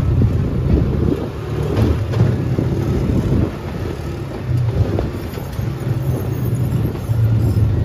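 UTV engine running under way, a steady low drone heard from aboard, with a few knocks from the ride over rough track.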